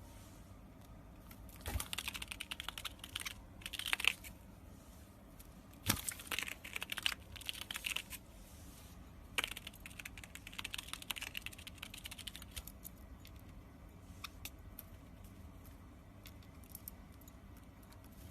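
A parrot nibbling and chewing with its beak: bursts of rapid small crunchy clicks, then sparser faint clicks later on.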